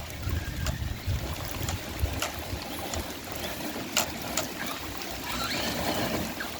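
Rain falling steadily, with sharp drip ticks hitting close by, loudest about four seconds in. Near the end a faint rising high whine joins it.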